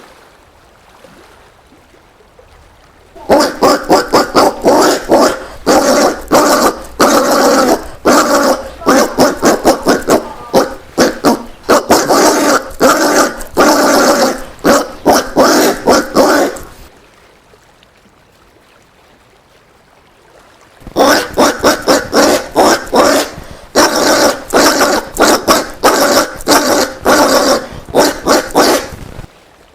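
Collared peccary making rapid, harsh barking calls, several a second, in two long bouts, the second shorter and starting about two-thirds of the way in.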